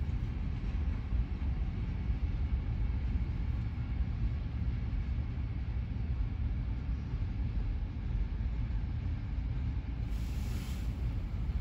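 Freight cars (covered hoppers and tank cars) rolling past over a road crossing: a steady low rumble, with a short hiss about ten seconds in.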